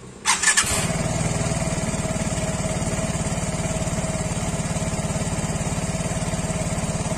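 Vespa Sprint S 150's single-cylinder four-stroke engine electric-started: it catches suddenly about a third of a second in, then settles into a steady, fairly quiet idle through the exhaust.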